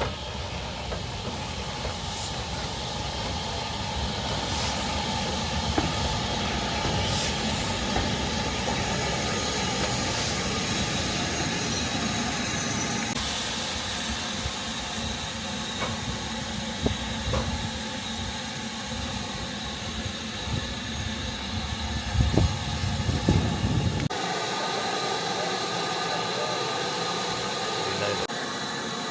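Steam train running by on the line: a steady hiss and rumble of the locomotive and its coaches, with a few louder knocks near the end. The low rumble then drops away suddenly.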